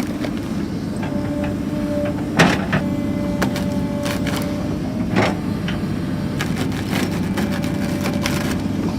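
Heavy stump-removal machine's engine running steadily under load, with a thin whine that comes and goes and several sharp knocks and cracks, the loudest about two and a half seconds in.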